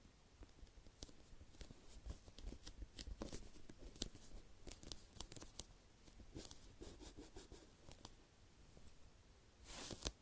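Fingers squeezing and rubbing a high-rebound sponge squishy toy shaped like a slice of bread (Sumikko Gurashi 'Yawaraka Usokko Pan'): faint scattered crackles and soft scratchy rustles of the foam surface, with a louder rustle near the end.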